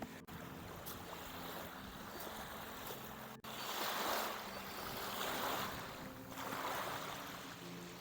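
Rushing outdoor wind-and-water noise at a reservoir shore, swelling and fading every second or so. There is a brief dropout about three and a half seconds in.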